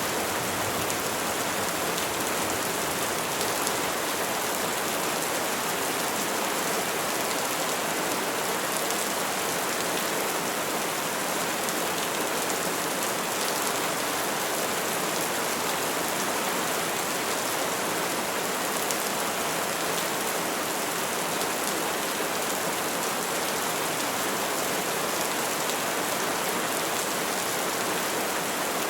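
Steady rainfall on trees, an even hiss with fine scattered drop patter and no thunder.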